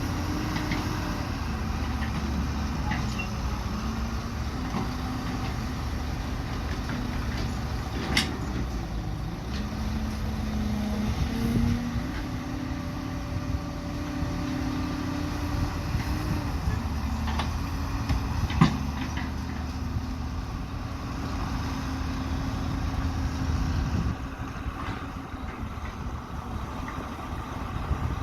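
Diesel excavator engine running at work, its pitch stepping up and down as the load changes, with a couple of sharp metallic clanks. It drops quieter near the end.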